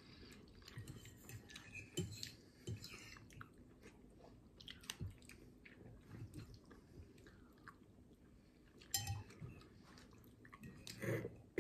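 Faint chewing of a soft mouthful of pasta, with a few light clicks of a metal fork against a plate.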